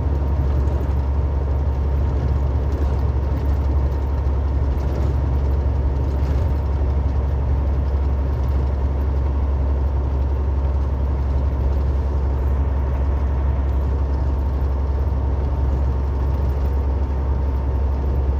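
Steady road and engine noise inside a car's cabin while cruising on the highway: a constant deep rumble with a faint steady tone above it.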